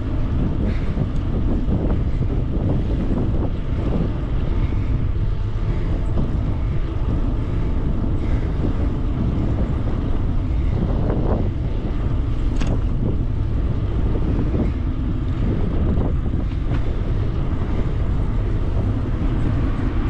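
Wind buffeting the microphone on a moving e-bike: a steady low rumble with a few light knocks.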